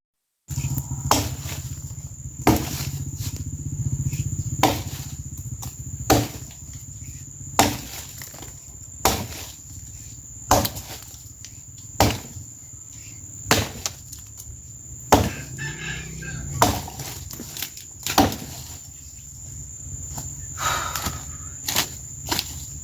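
Axe chopping wood: a steady run of sharp strokes, about one every second and a half. A steady high insect drone goes on behind them.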